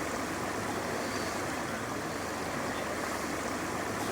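Steady running noise of a small boat's motor with water washing along the hull.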